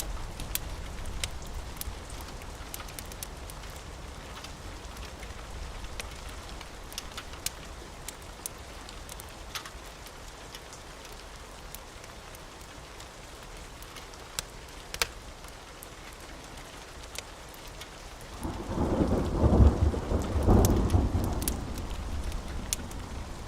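Steady rain with scattered sharp crackles of a wood fire. A loud, low roll of thunder rumbles in about three-quarters of the way through, lasting a few seconds before fading back to the rain.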